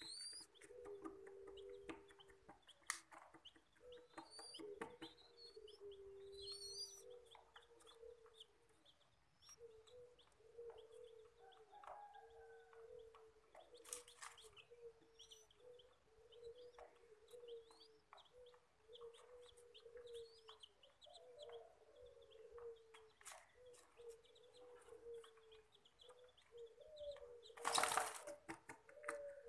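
Birds calling softly: a steady run of short, low calls, with faint high rising chirps in the first few seconds. Near the end comes a brief, louder rustle.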